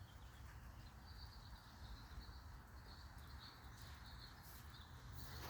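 Near silence: faint background hum with a faint steady high-pitched chirring.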